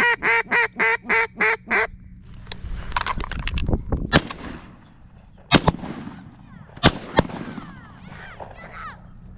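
A rapid run of about eight loud mallard quacks in the first two seconds, then three shotgun shots: one about five and a half seconds in, and two close together about a second later.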